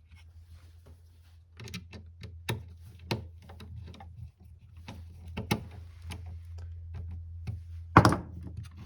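Objects being handled and set down on a workbench: scattered clicks and knocks, with a louder thump about eight seconds in, over a low steady hum.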